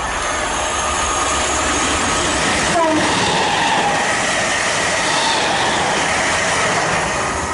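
Electric multiple-unit passenger train running through the platform at speed without stopping: a loud rush of wheels on rail with a steady whine, at its loudest in the middle, and a short falling tone about three seconds in.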